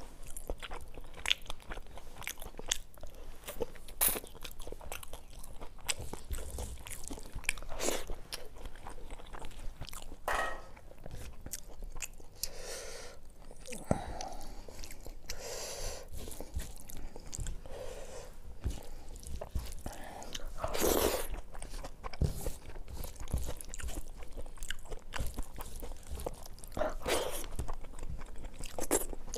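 Close-miked eating: a person chewing and biting fried fish, fried cauliflower and rice, with frequent crunches, wet mouth smacks and clicks.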